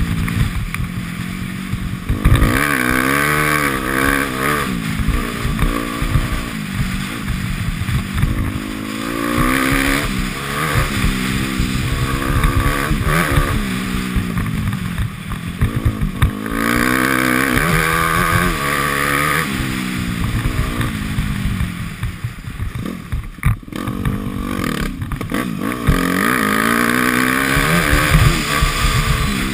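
Dirt bike engine being ridden hard, heard from an onboard GoPro: its pitch climbs and drops again and again as the throttle is opened and closed.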